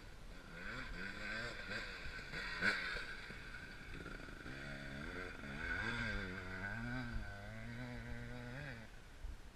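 Off-road racing motorcycle engine revving up and down in pitch as the throttle is worked, with a single sharp crack about two and a half seconds in.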